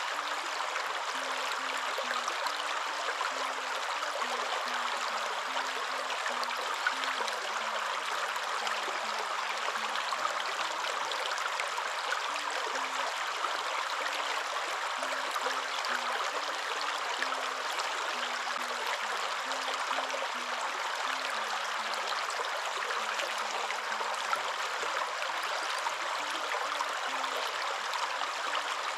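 Waterfall running steadily: an even, unbroken rush of falling water, most of it a midrange hiss.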